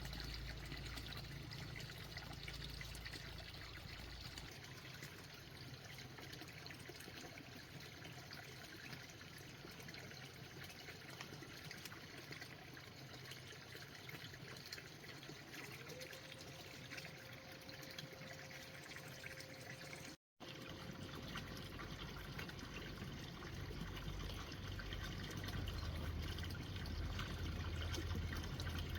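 Water trickling and pouring steadily, broken by a brief silent gap about twenty seconds in.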